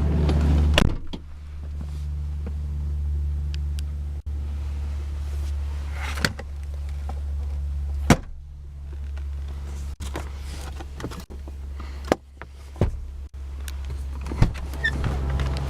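Electric power passenger seat motor in a 2003 Lincoln Town Car humming steadily as the seat travels. The hum is broken by about ten short clicks and knocks as it stops and restarts.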